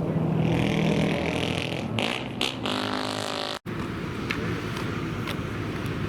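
Supercar engines running, with one revving about two and a half to three and a half seconds in. The sound cuts out abruptly for an instant just past halfway, then the engine rumble goes on.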